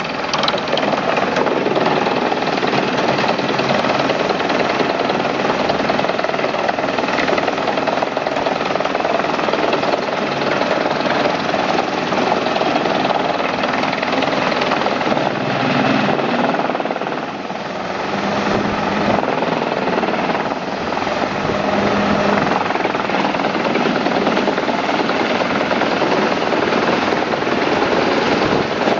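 Forest wood chipper running with a loud, dense, steady mechanical noise that eases off briefly about halfway through.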